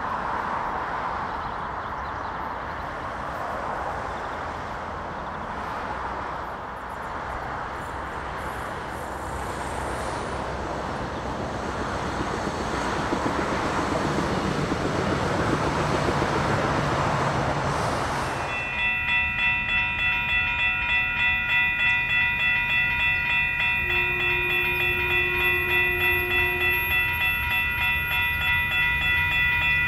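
Siemens Desiro diesel multiple unit running past on the rails: a steady rush of engine and wheel noise that swells and then cuts off sharply about eighteen seconds in. Then a railroad crossing bell rings about one and a half times a second, and a single horn note of about three seconds sounds in the middle of it.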